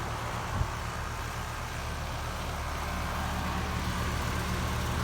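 2-ton Grand Air heat pump outdoor unit running in cool mode: a steady hum from its Copeland scroll compressor with the condenser fan's rush over it. A faint tick about half a second in.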